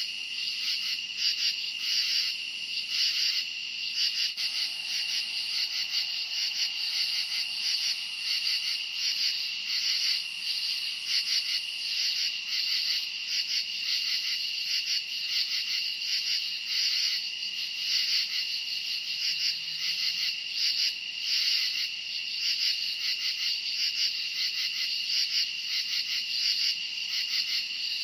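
A chorus of crickets chirping: many fast, high-pitched pulsing trills merging into one steady drone.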